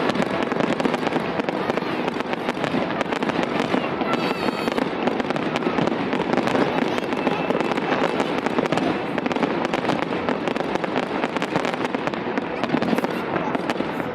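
Fireworks display crackling: a dense, continuous stream of rapid pops and crackles without a break.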